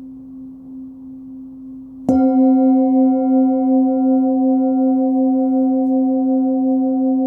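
A 16.3 cm Nepalese singing bowl with its fundamental near 262 Hz (C) rings softly from an earlier stroke. It is struck again about two seconds in and rings on loud and sustained, with a slow pulsing beat and several higher overtones.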